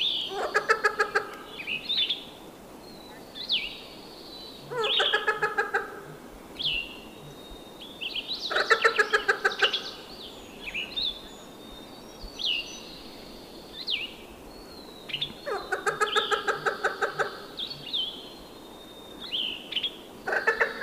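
Birds calling: four loud, rapidly pulsed calls of a second or so each, a few seconds apart, with many short high whistles sliding downward in between.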